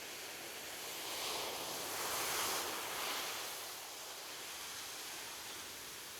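Gentle ocean waves on a beach: a soft hiss of surf that swells as a wave breaks and washes in about two seconds in, then eases back.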